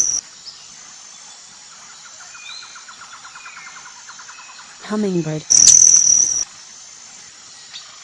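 Hummingbird sound recording: a rapid run of high ticks over a steady insect-like high trill, then a short, loud, high chirp.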